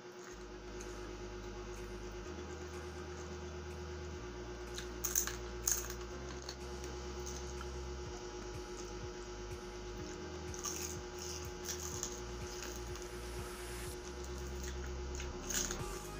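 Close-miked eating of crispy fried food: wet chewing and crunching, with a few sharp crunches or clicks about five seconds in, again around eleven seconds and near the end, over a low steady hum.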